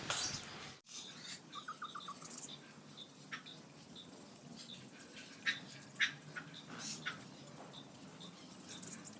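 Small aviary finches giving faint, short high chirps, with light scattered clicks.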